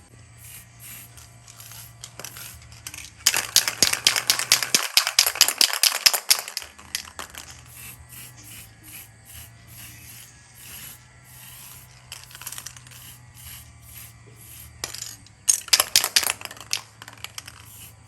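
Fast, dense scraping and rattling on a hard surface in two spells: a loud one of about three seconds a few seconds in, and a shorter one near the end. A low steady hum runs underneath.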